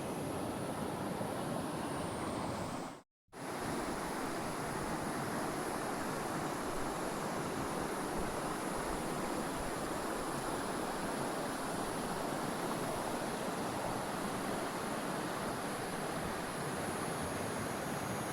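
Steady rushing of creek water with a faint, steady high tone above it. The sound cuts to silence for a moment about three seconds in.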